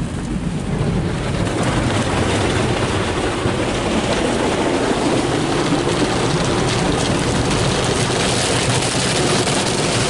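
Ryko SoftGloss MAXX rollover car wash working over the car, heard from inside: a loud, steady rushing of water and machinery that swells over the first second or so.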